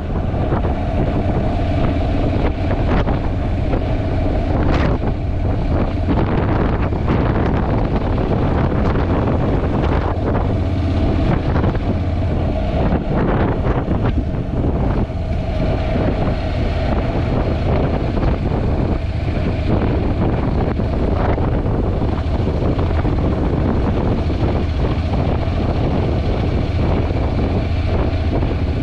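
Heavy wind buffeting on a helmet-free action-camera microphone while riding at speed, with the Honda NC750X motorcycle's parallel-twin engine and road noise running underneath.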